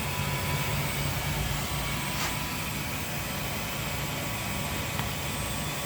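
xTool F2 laser engraver running a cutting pass through black acrylic: a steady whir of its fans with a faint hum, and a light tick about two seconds in.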